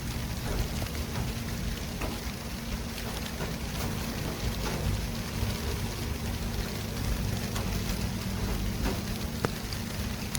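City traffic ambience: a steady wash of road noise from passing vehicles, with a low rumble and a faint steady hum underneath and a few small clicks.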